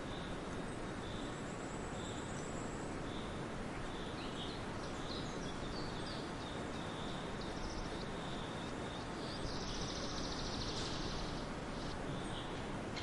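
Steady background noise with a small bird chirping over and over, short high calls about twice a second, and a brief buzzy trill about ten seconds in.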